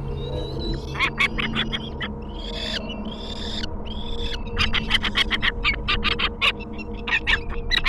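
Bird calls: runs of rapid sharp chirps, several a second, with three short arching screechy calls in the middle.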